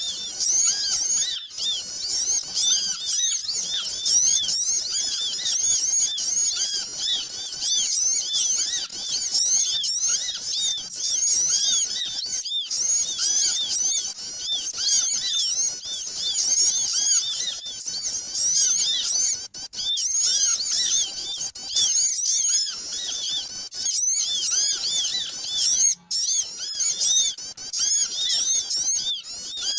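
Dense chorus of many small birds chirping at once: continuous, overlapping short high chirps with no let-up. A bird-trapper's lure (pikat) recording of small birds calling noisily.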